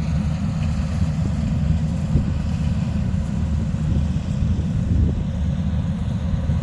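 Rice combine harvester engine running with a steady low rumble.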